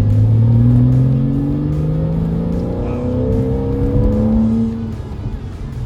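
2008 Porsche Boxster RS60 Spyder's 3.4-litre flat-six accelerating hard, its engine note rising through the revs, dropping back once about halfway through as it shifts up, then rising again before easing off.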